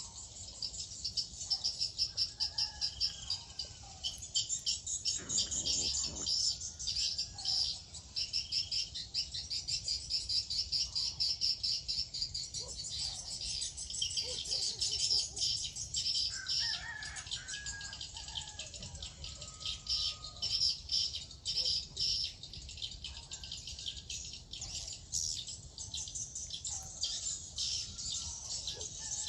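Outdoor wildlife chorus: continuous rapid, high-pitched chirping and trilling, with a few lower bird calls scattered through it.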